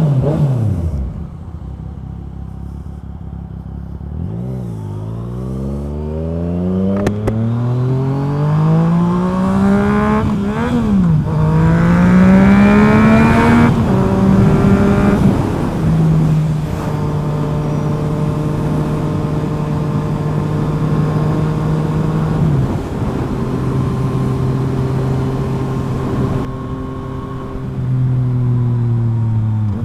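Yamaha FZ-09's 847 cc inline-three with a full M4 exhaust, ridden: the revs fall away at the start, then climb through the gears with short breaks at each shift, loudest around twelve to fourteen seconds. After that the engine settles into steady cruising at lower, even revs, stepping down a couple of times.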